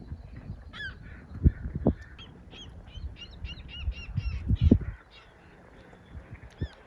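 Birds calling: short high notes, with a quick run of repeated calls in the middle. Low thumps on the microphone are the loudest sounds, about a second and a half in and again around four to five seconds in.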